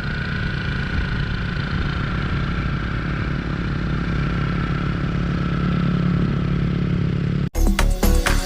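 Motorcycle engine running steadily, with a faint even whine above the engine note. It cuts off abruptly about seven and a half seconds in, where music takes over.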